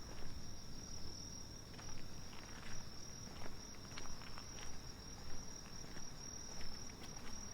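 Crickets or other night insects trilling in one unbroken high-pitched drone, with the walker's footsteps on pavement at an even pace of about three steps every two seconds.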